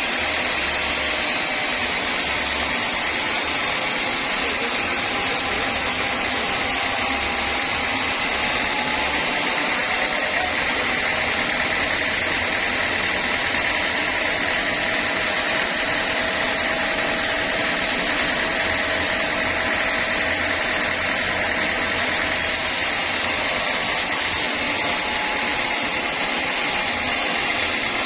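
Sawmill saw running steadily: a continuous whining hiss with faint tones that drift slightly in pitch.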